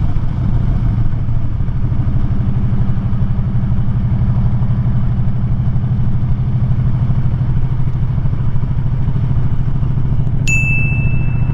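Motorcycle engine idling with a steady, rapid low pulsing. About a second before the end a high steady beep starts and holds.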